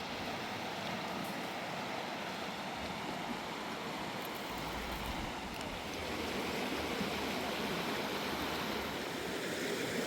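Steady rushing of a river, with wind gusting on the microphone about halfway through.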